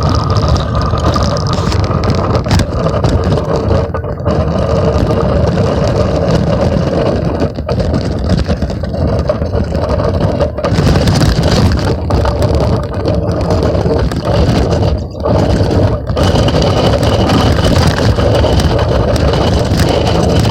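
Loud, continuous rumble and rattle of a phone carried in a child's bicycle basket while the bike is ridden, with frequent small knocks as it jostles against the basket.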